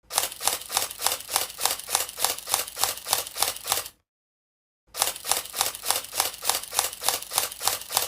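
Rapid, even mechanical clicking, about four or five clicks a second, in two runs of about four seconds with a short dead gap between them.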